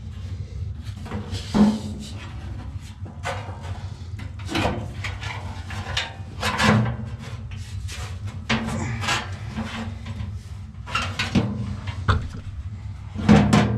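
Irregular metal knocks, clinks and scraping from hand tools working at an HVAC blower motor and its blower wheel, which is stuck on the motor shaft.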